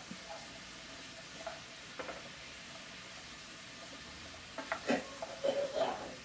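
Chopped onions and mushrooms sizzling steadily in olive oil in a skillet as they sauté toward translucent. A wooden spoon stirs them, scraping and knocking against the pan a couple of times early and in a busier run near the end.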